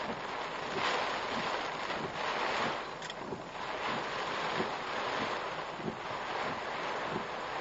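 Typhoon rain and wind beating on a car, heard from inside through the dashcam: a steady rushing roar that swells about a second in and again near the middle, with soft regular thumps about twice a second.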